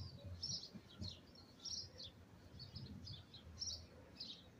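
Small songbird chirping in faint, short, high chirps, about two a second, over a low background rumble.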